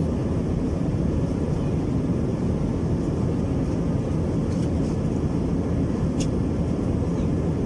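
Steady cabin rumble inside an Airbus A321-200 in climb: engine and airflow noise, deep and even. A brief faint click sounds about six seconds in.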